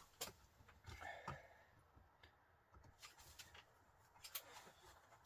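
Faint, scattered clicks and light knocks of metal parts and tools being handled at a workbench vice, with a brief faint squeak about a second in and the sharpest click about four and a half seconds in.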